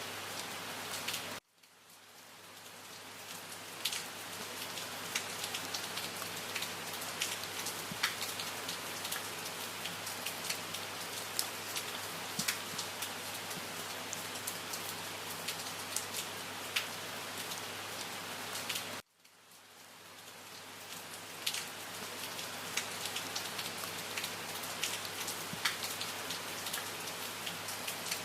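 Steady rain, with many individual drops ticking on a surface. About a second and a half in, and again about 19 seconds in, the rain cuts out suddenly and fades back up over a couple of seconds.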